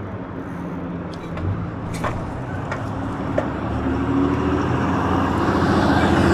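Motor vehicle engine running with road noise, its low hum growing louder in the second half, with a few sharp clicks about one to three seconds in.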